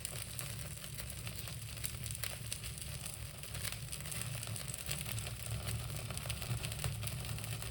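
Small ritual fire crackling as it burns, with scattered sharp crackles and pops over a low steady hum.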